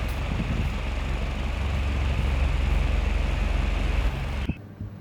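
A steady mechanical running noise with a low hum, cutting off suddenly about four and a half seconds in.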